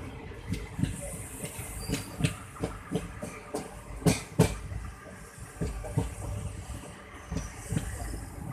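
Moving train running on the rails, its wheels clacking over rail joints with a steady low rumble; the knocks come irregularly, the loudest pair about four seconds in.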